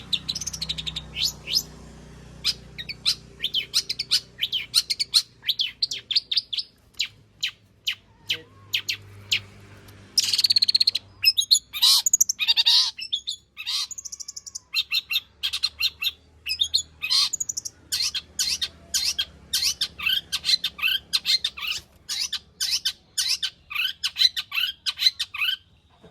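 Long-tailed shrike (cendet) singing a fast, varied song of sharp, high chirps strung close together, with a harsher rasping stretch part-way through; a full song packed with mimicked phrases of other birds.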